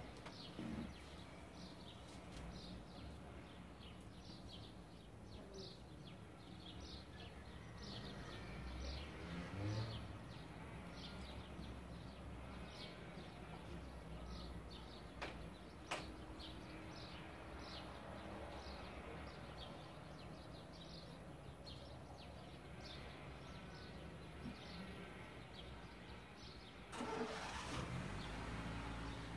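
A small bird chirping over and over, about twice a second, over a low steady rumble of traffic. A single sharp click comes about halfway through, and a louder rush of noise swells near the end.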